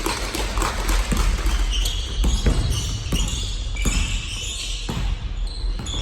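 Basketball bouncing on a gym floor with sneakers squeaking during game play: irregular sharp bounces and short high squeaks.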